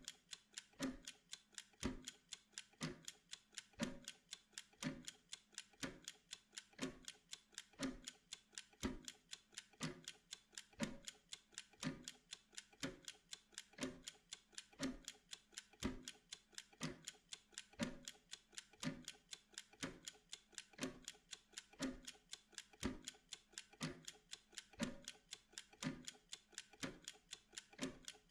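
Steady mechanical timer ticking: a louder tick about once a second, with lighter, quicker ticks in between.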